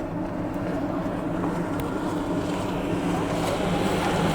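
Mercedes-Benz Actros truck's diesel engine idling, a steady low drone heard from inside the cab that grows slightly louder.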